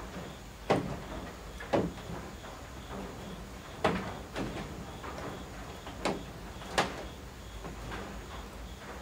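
Rain on the eaves at night: a steady light patter, with large drops falling irregularly and knocking sharply, about five times.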